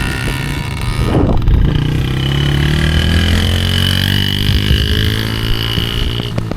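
Dirt bike engine running, its pitch climbing a little in the first few seconds and then holding steady.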